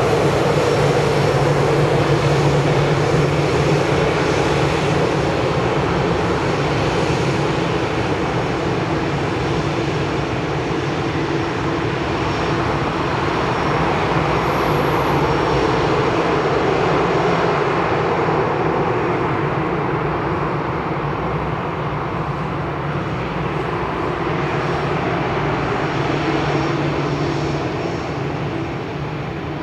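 A jet airliner's engines running at takeoff power: a loud, steady rush of jet noise with a low hum beneath, slowly fading over the last several seconds as the aircraft departs.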